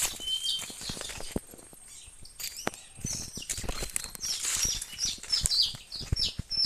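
Oriental magpie-robin (kacer) calling: a quick run of short, high, falling chirps in the second half, with a whistled note near the start. Rustling and sharp knocks sound throughout.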